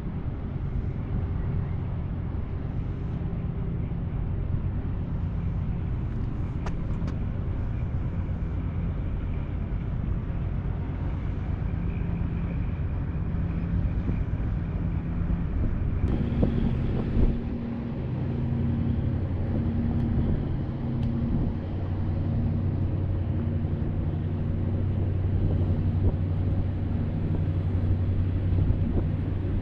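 Steady low engine hum with outdoor rumble; about halfway through, a low pulsing tone joins it, sounding on and off a little more than once a second.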